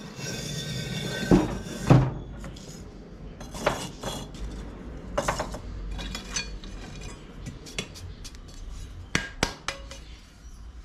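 Metal being struck and clanked in a knife-forging workshop: a rushing hiss for the first two seconds, then about eight sharp, irregularly spaced metallic strikes with a brief ring.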